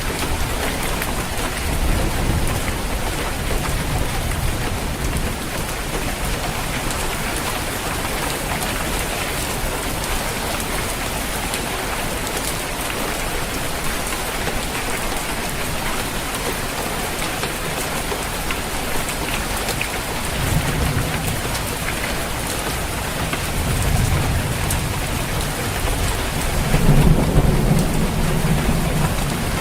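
Steady heavy rain falling on a roof, with rolls of thunder rumbling low several times, the strongest near the end.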